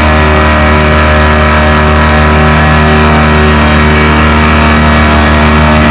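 John Deere 435's GM two-cylinder two-stroke diesel, the 'screaming Jimmy', running at steady high revs while pulling the sled. The engine note holds a constant pitch.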